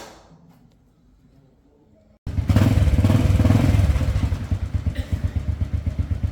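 A motorbike engine starts abruptly about two seconds in and runs with a loud, rapid pulsing exhaust note, easing off and slowing toward the end.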